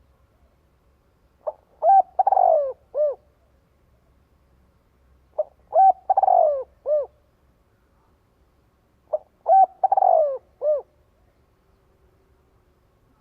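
Spotted dove cooing its song three times, about every four seconds. Each phrase is a short note, two quick coos, a longer falling, rougher coo and a final coo. It is a decoy call used to stir other doves to call.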